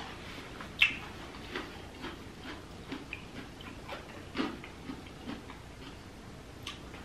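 Close-miked chewing and wet mouth smacks of someone eating king crab meat: soft, irregular clicks about once a second, the sharpest just under a second in and another about four and a half seconds in.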